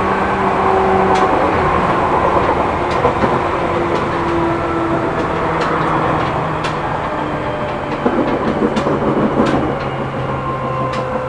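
Running noise inside a Seibu New 2000 series electric commuter train at speed: a steady rumble with motor hum in several tones that drift slowly in pitch, and scattered sharp clicks from the wheels on the rails, on wheels that have flat spots. About eight seconds in the noise grows rougher for a moment, then settles.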